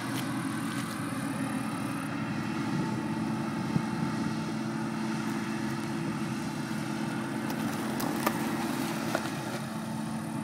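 A car engine running close by with a steady hum, then pulling away, with a couple of short clicks about four and eight seconds in.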